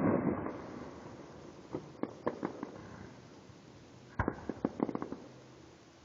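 Fireworks going off: the rumbling echo of a burst dies away at the start, then two quick clusters of sharp cracks and pops come about two seconds in and again about four seconds in.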